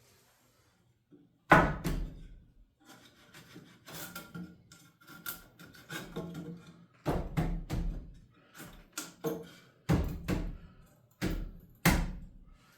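Irregular wooden knocks and thuds as lumber for a stud wall is handled and knocked into place, the loudest about a second and a half in and more in a cluster near the end.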